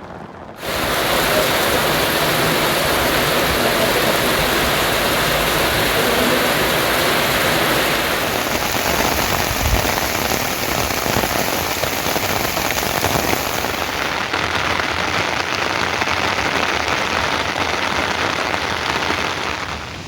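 Rain pouring down steadily, a loud even hiss of falling water that cuts in suddenly just after the start and drops away near the end.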